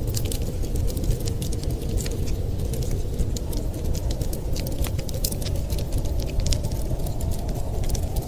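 Wood fire in a fireplace crackling, with many quick, irregular sharp pops over a steady low rumble.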